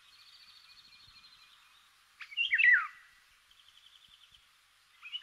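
Small songbirds singing: a fast high trill, then a louder phrase of quick falling whistles about two seconds in, then another short trill.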